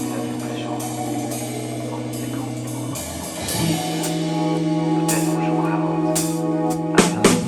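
A live band playing an instrumental passage: held guitar and bass chords that change about three seconds in, with cymbals over them and a burst of drum hits near the end.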